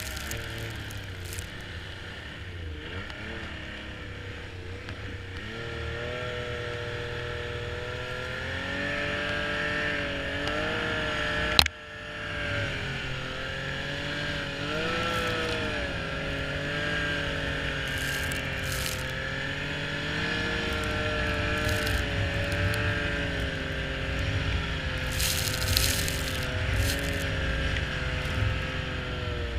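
Snowmobile engine running, its pitch rising and falling with the throttle, with one sharp click about twelve seconds in.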